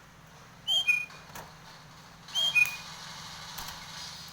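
Nias hill myna giving two loud, near-identical whistled calls about a second and a half apart. Each is a short low glide followed by two clear high whistles, the second a little lower than the first. The keeper takes the bird to be over-excited in breeding condition.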